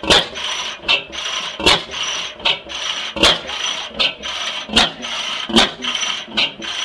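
25 hp South Penn half-breed oil field engine with hot-tube ignition, running slowly on propane. A sharp knock comes about every second and a half with a lighter click between, over a rhythmic rasping, swishing mechanical noise that pulses with each turn.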